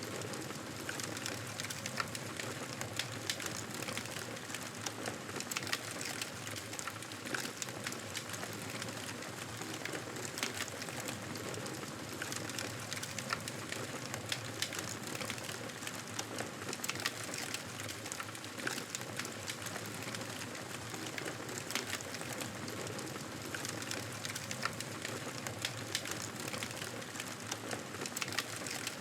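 Campfire burning: a steady hiss of flames with frequent small crackles and pops from the burning wood.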